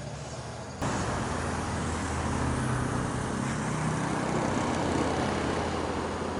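Motorcycle engine running as it approaches, slowly getting louder and then easing slightly near the end; the sound cuts in abruptly about a second in.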